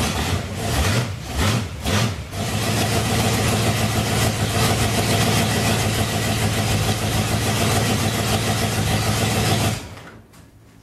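The Ford Falcon's 5.8-litre V8 running noisily through a temporary exhaust on its first run since being rebuilt on the engine stand. The sound is uneven for the first couple of seconds, then runs steadily, and the engine is switched off near the end.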